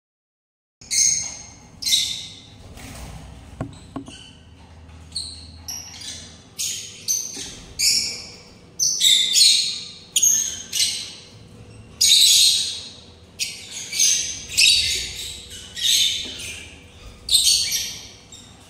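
Small pet birds calling: a string of short, harsh, raspy cries, each starting suddenly and fading, roughly one a second, over a faint steady hum.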